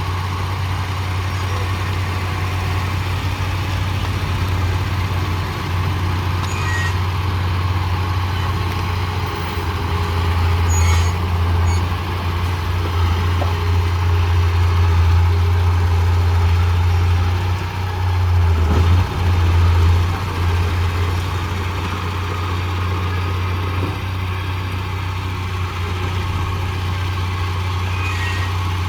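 Heavy diesel engine of earthmoving machinery running steadily with a low drone that swells louder in the middle and dips briefly, with a few faint clicks.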